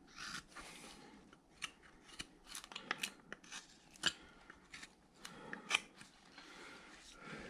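Hand carving blade cutting wood in short, irregular strokes: crisp snips and clicks as the edge bites and shaves, with soft scraping between cuts, as a carved figure's leg is rounded off.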